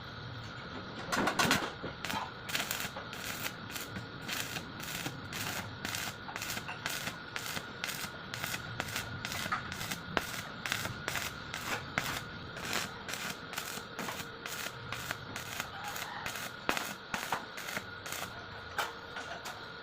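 Arc welding on thin hollow steel tube, done in short repeated bursts of crackling arc, about two a second, as the arc is struck and broken again and again to keep from burning through the thin wall. A faint steady whine runs underneath.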